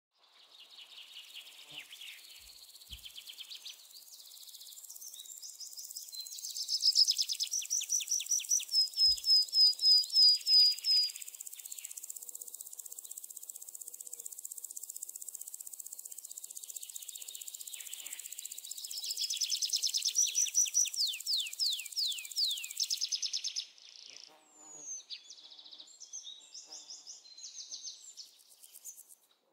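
Wild birds singing outdoors: quick runs of high chirps, each note sliding down in pitch, loudest in two spells about a quarter and about two thirds of the way through. Under them a steady high hiss runs and stops suddenly near the end, leaving scattered chirps.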